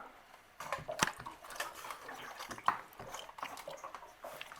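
Irregular light taps and spattering, with a few sharper clicks about a second in and near the middle, as dirty water runs out in fits from a partly clogged water heater drain valve.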